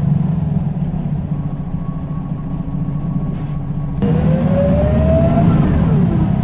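Scania L94UB single-deck bus's diesel engine running. About two-thirds of the way in it gets louder and pulls away under power, with a rising whine from the drivetrain. The whine then drops in pitch near the end, as at a gear change.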